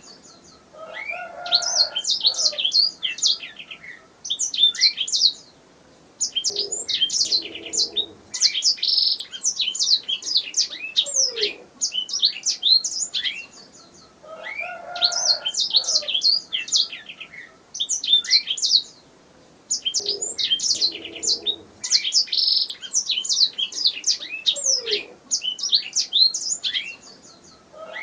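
Domestic canary singing: long fast phrases of rapid high chirps and trills, a few seconds each, with short pauses between them. The same phrases come round again about every 14 seconds.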